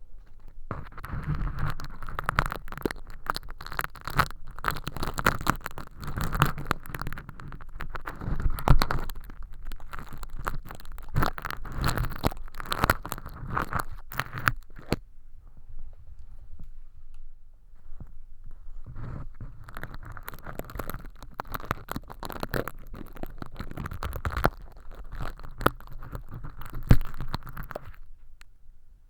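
Crinkly hologram film, standing in for crispy earwax inside a transparent silicone ear model, crackling and scraping as tweezers pick and peel at it. It comes in two long spells, with a few seconds of quiet and faint clicks in between about halfway through.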